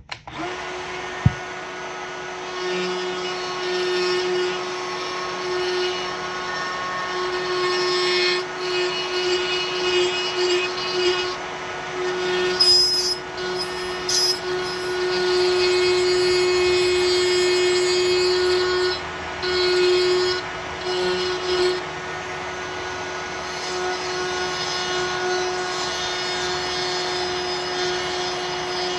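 Electric grinder running steadily at one pitch, growing louder in stretches as it is pressed into the work, shaping a knife handle.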